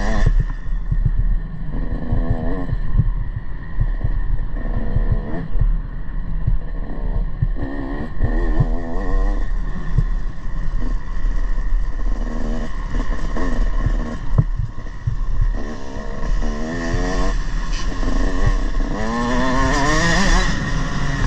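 Motocross bike engine revving up and down again and again, its pitch climbing and dropping with throttle and gear changes, over a constant low rumble. The revs climb highest near the end.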